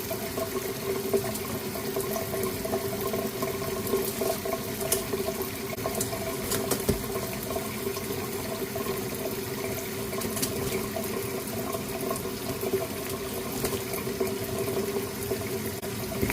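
A sink tap running steadily, water pouring into the sink with a steady hum, broken by a few brief sharper splashes.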